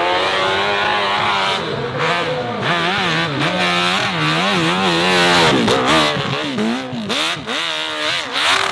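Racing motorcycle engine at high revs, its pitch climbing and dropping again and again with throttle changes and gear shifts, loudest about five seconds in.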